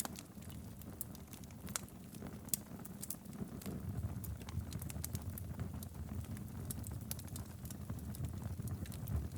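Wood fire burning in a fireplace: a low steady rumble of flames with frequent sharp, irregular crackles and pops.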